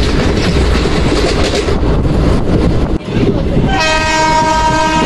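Passenger train running along the track, heard from an open coach doorway with wind noise. About four seconds in, the locomotive's horn starts, one steady blast that holds on.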